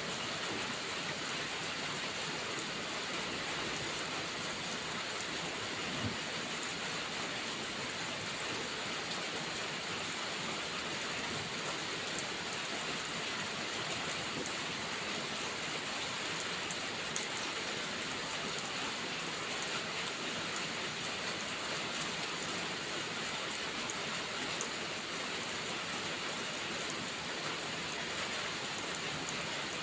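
Steady rain falling, an even hiss with two faint ticks along the way.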